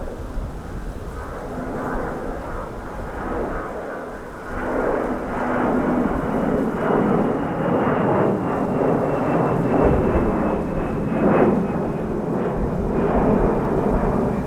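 Jet airliner's engines rumbling as it passes, growing louder about four and a half seconds in, with a faint high whine slowly falling in pitch.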